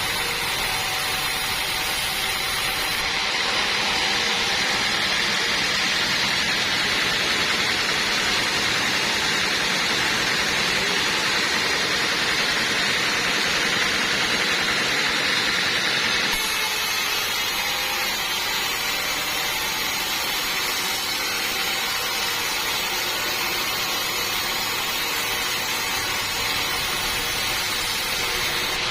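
Sawmill saw and machinery running steadily, cutting through a teak log. The sound is a steady hiss-like whine that shifts abruptly in tone about three seconds in and again a little past halfway.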